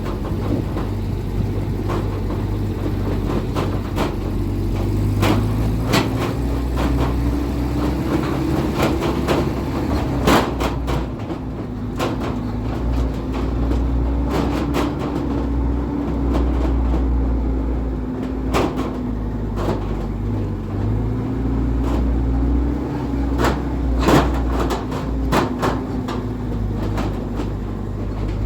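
A vehicle's engine running steadily while driving, its pitch wavering slightly, with frequent short knocks and rattles throughout.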